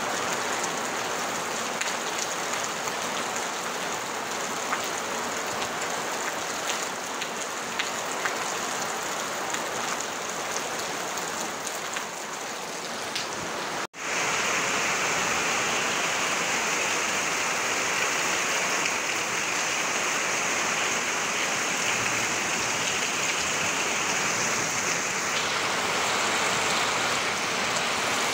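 Heavy rain on a tin roof, with water pouring off the roof edge: a steady, loud hiss with scattered drop ticks. About halfway through, the sound cuts out for an instant and comes back as a smoother, brighter rush of rain.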